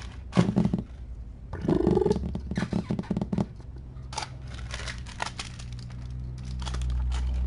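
Crinkling and rustling handling noises with scattered irregular clicks, over a steady low hum that grows louder near the end.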